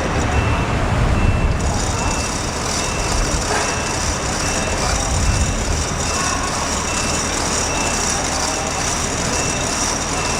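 Truck's reversing alarm beeping at a steady pace, a little under twice a second, over the low rumble of its running engine. A steady high hiss joins about a second and a half in.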